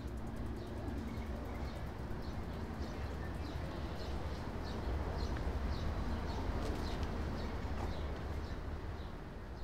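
A small bird chirping repeatedly, about twice a second, over a steady background of low rumble and hiss.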